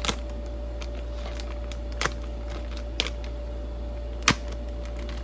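A sealed plastic hardware bag being worked open by hand: a few separate crinkles and clicks, the sharpest a little over four seconds in, over a steady low hum.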